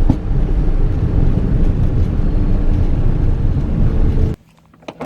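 Steady low rumble of a jet aircraft with wind noise on the microphone. It cuts off abruptly about four seconds in, leaving a much quieter background.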